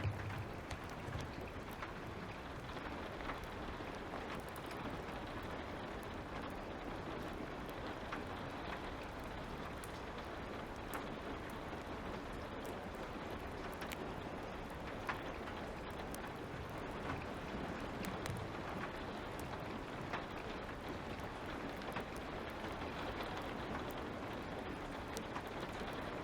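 Steady light rain, with scattered sharp crackles and pops from a wood fire.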